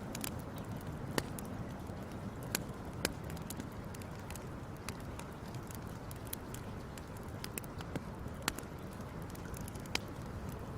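Wood fire crackling: a steady low rush with irregular sharp pops and snaps, a handful of them clearly louder than the rest.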